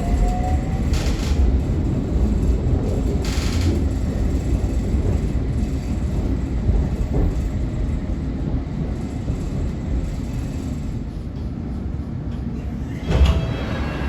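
Metropolitan line Underground train running, heard from inside the carriage: a steady rumble of wheels on track. A rising motor whine fades out about a second in, and there are two short hisses early on. A louder clatter comes near the end.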